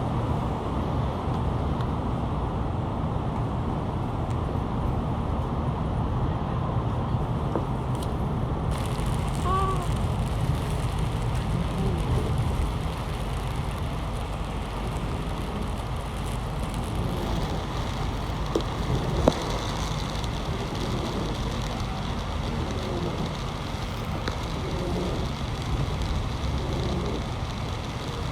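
Steady low rumble of road traffic, with a brief sharp click about two-thirds of the way through.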